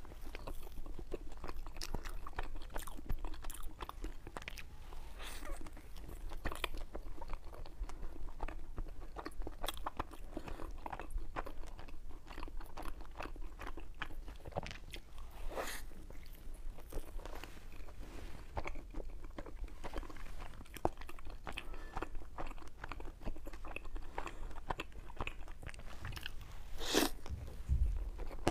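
Close-miked mouth sounds of a woman biting and chewing a large cream-filled mochi (snow-skin xue mei niang): irregular wet clicks and smacks, with one louder smack near the end.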